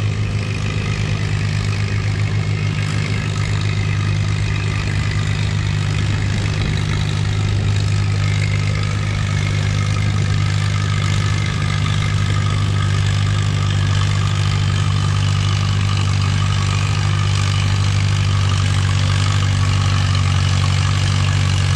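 Antique farm tractor engine running steadily under heavy load as it pulls a weight-transfer sled down the track, its pitch held nearly constant throughout.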